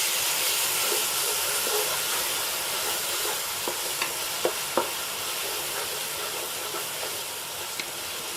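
Sliced onions and ginger-garlic paste frying in hot oil with a steady sizzle, cooking off the raw flavour of the paste. A few light clicks from stirring come about halfway through.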